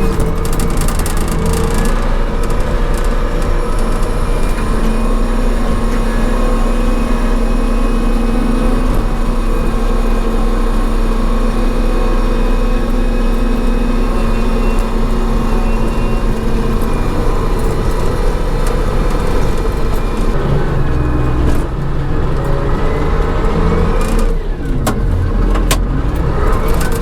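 John Deere 544C wheel loader's diesel engine running steadily under load while moving snow, its speed shifting as it works; near the end the engine's pitch drops and then climbs back up.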